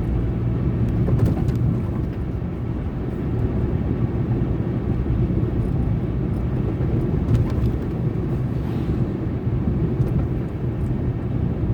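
Steady road noise from inside a moving car with the windows partly rolled down: a continuous rumble of tyres and engine, with air rushing in.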